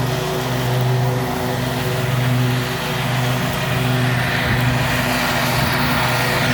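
Scag Liberty Z zero-turn mower's Kawasaki engine running steadily at a constant speed.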